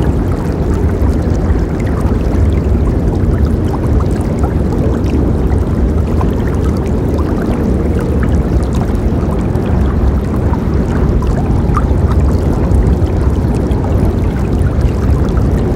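River water flowing steadily, a low rushing with many small splashes and gurgles.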